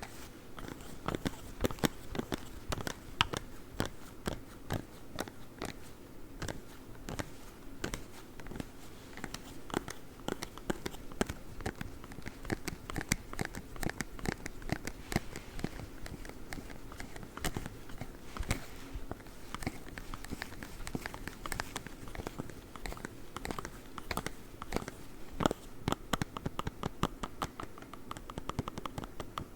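Claw gloves' hard fingertips tapping and scratching in quick, irregular flurries of sharp clicks and scrapes.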